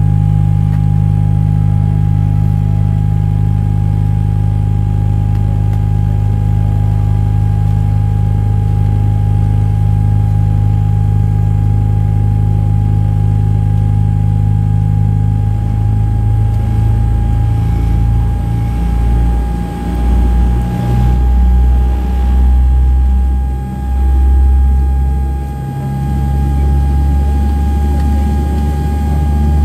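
Boeing 787-8 airliner cabin noise on the ground: a steady low hum with a constant thin whine above it. About halfway through, the low rumble begins to swell and dip unevenly.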